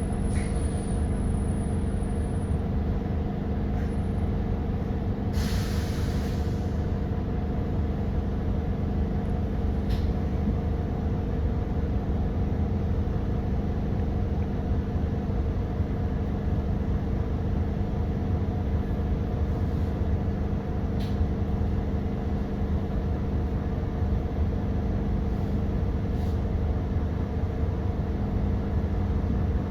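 Doosan GX12P natural-gas engine of an Edison Motors Smart 110G city bus running steadily, a constant drone heard inside the bus. About five and a half seconds in comes a short hiss of air, lasting about a second.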